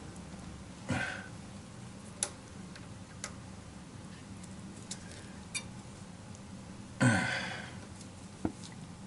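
Scattered clicks and knocks from hand tools and parts being handled during a boiler tune-up, about six of them, the loudest a clank about seven seconds in, over a low steady hum.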